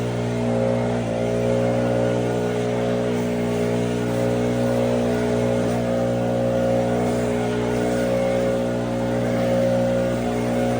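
An engine running steadily at a constant speed, its pitch dipping briefly about a second in.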